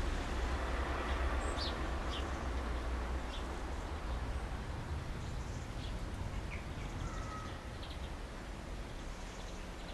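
Small garden birds, finches at a feeder, giving short, scattered high chirps over a steady low rumble.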